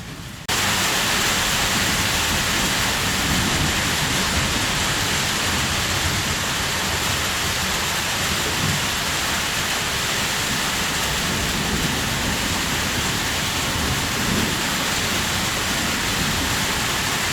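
Heavy rain falling steadily. About half a second in, softer rain cuts abruptly to a much louder, unbroken downpour.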